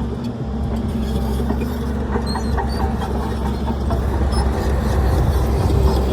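Heavy diesel engine of earthmoving machinery running steadily, growing a little louder over the last couple of seconds, with scattered clicks.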